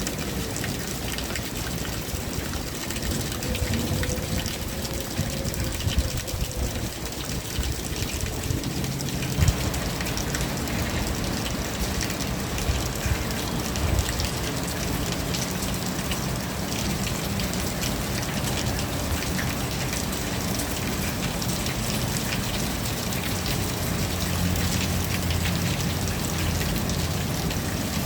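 Steady rain falling, a dense patter of drops with a low rumble underneath that fills in from about ten seconds in. A faint wavering tone drifts through the first several seconds.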